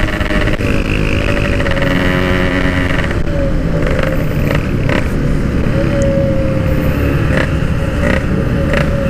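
Yamaha RX-King two-stroke motorcycle engine running at a fairly steady speed while riding, through a stock-look Packing Power exhaust; the engine pitch holds nearly even with small rises and dips of the throttle.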